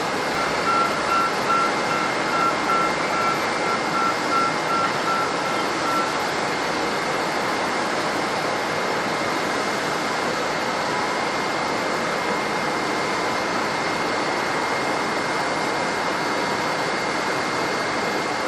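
Steady roar of jet aircraft engines with a high, steady whine running through it. For about the first six seconds a vehicle's reversing beeper beeps rapidly over it, about two to three beeps a second.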